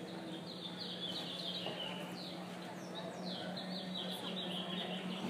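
A small bird chirping in quick runs of short, high, downward-sliding notes, over a steady low hum.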